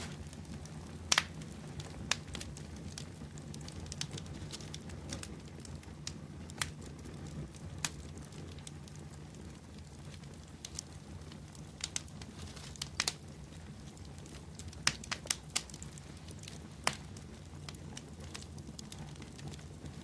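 Wood bonfire burning: a steady low rush of flame with scattered sharp crackles and pops, the loudest about a second in and a cluster around the middle to late part.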